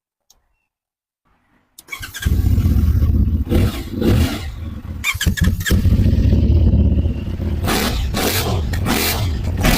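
CFMOTO 450MT motorcycle's 449 cc parallel-twin engine starting up about two seconds in, then running loudly with uneven swells in level.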